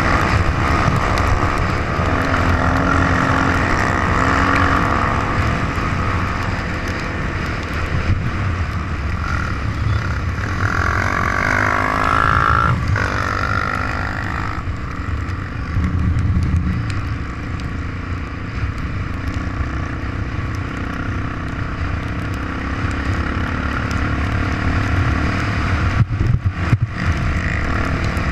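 Trail motorcycle engine running under way over a heavy low rumble, its pitch rising and falling with the throttle, with a harder rev about eleven seconds in.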